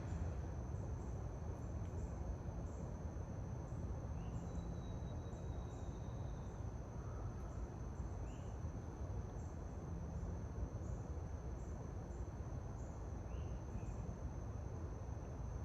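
Forest ambience: a steady high trill of crickets, with a few short chirps now and then over a low, even background rumble.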